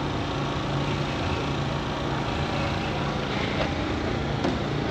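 Steady mechanical hum with a constant low drone, over an even background hiss, with a short faint click near the end.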